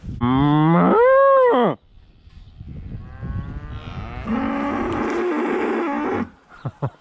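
Cattle mooing twice: a loud moo of about a second and a half that rises and then falls in pitch, then a longer, quieter moo about three seconds in. The cattle are bawling for feed.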